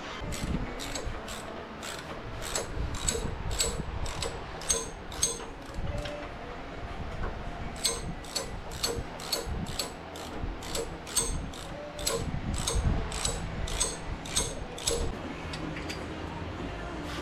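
Hand ratchet wrench clicking as it backs out bolts on a motorcycle engine, about two to three clicks a second, in two runs with a short pause between them.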